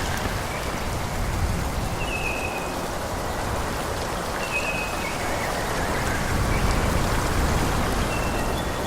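Steady rushing noise of wind through a forest, with a low rumble underneath. Short high whistled calls come and go every second or two, each dipping slightly in pitch.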